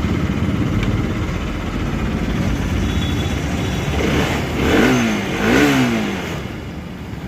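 Bajaj Pulsar RS 200's single-cylinder engine running at idle, revved up twice in quick succession about five seconds in. It has just been started by bridging the starter relay's terminals with a screwdriver, which shows the relay is not passing 12 V to the starter motor.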